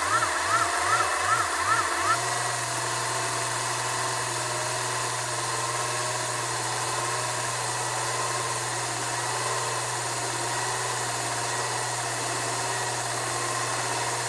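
Digital audio tape (DAT) machine sound effect of electronic hiss and static. For about the first two seconds a tone warbles up and down a few times a second, then it settles into a steady low hum with a faintly wavering whine under the hiss.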